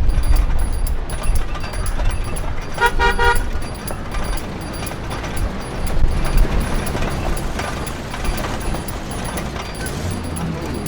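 A short horn tone sounds about three seconds in, broken into a few quick beeps, over a steady low rumble.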